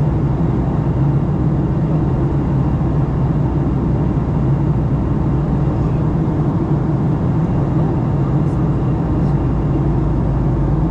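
Steady cabin noise inside a Boeing 737-900 on descent: a low, unchanging roar of the engines and rushing air past the fuselage.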